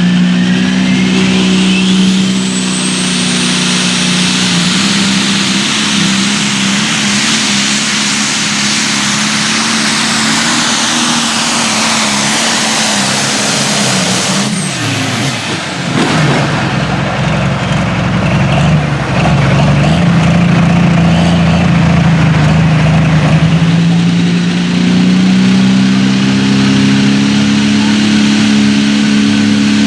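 Turbocharged diesel pulling tractor running at full throttle under load, its high turbo whistle over the engine note. About halfway through the engine pitch falls sharply, then the engine picks up again and climbs toward the end.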